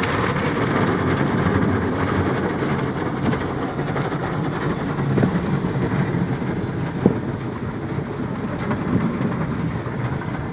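Automatic car wash machinery running: a steady rumbling and rushing, with a few short knocks, the sharpest about seven seconds in.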